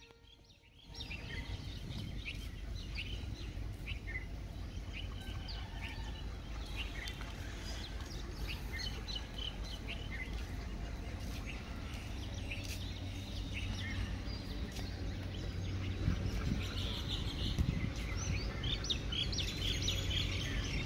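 Several birds chirping and calling in short notes, over a steady low rumble that grows somewhat louder in the second half.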